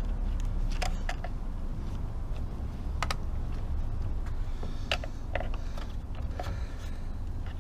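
Scattered light metallic clicks and taps of hand tools on the hedge trimmer's parts, a few at a time with pauses between, over a steady low background rumble.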